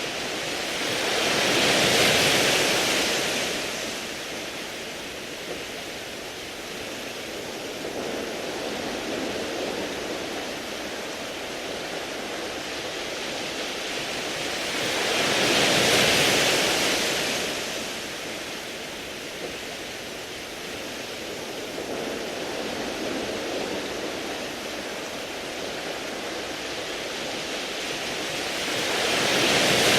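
Sea waves washing in over a beach of smooth round pebbles, a steady hiss that swells three times, about every fourteen seconds: near the start, in the middle and at the end.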